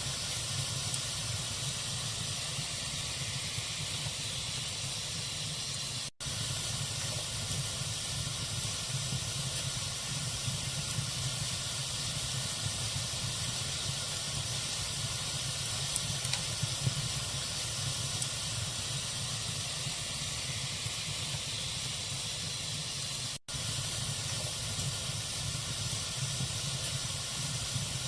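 Log fire burning in a fireplace: a steady hiss with small scattered crackles, cut off for an instant twice.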